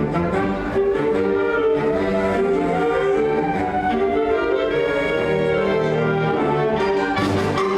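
A high school orchestra playing, bowed strings to the fore, in long held notes that move slowly from chord to chord.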